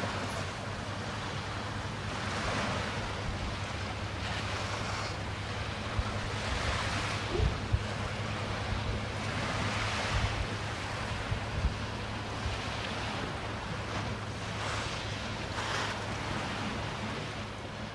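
Small sea waves breaking on a beach, the wash swelling and fading every few seconds, with wind rumbling on the microphone and a couple of brief low bumps about halfway through.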